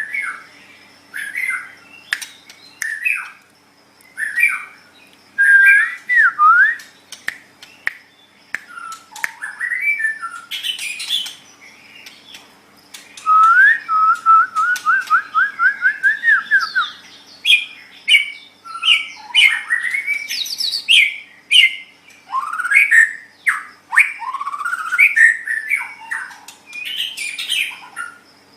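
White-rumped shama (murai batu) singing a varied song of loud whistled phrases, sliding notes and sharp chattering calls, with a run of about a dozen quick repeated notes midway through.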